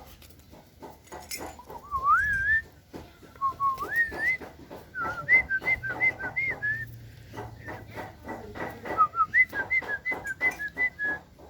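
A person whistling, with a couple of rising whistles and then quick runs of short high notes, over many sharp clicks.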